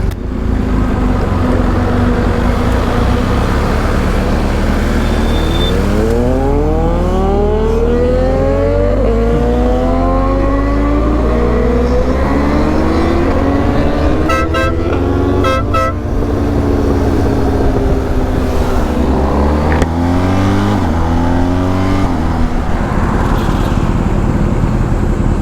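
Motorcycle engines accelerating, their pitch rising repeatedly as they pull through the gears, over a steady low rush of wind and road noise. A few short horn toots sound about halfway through.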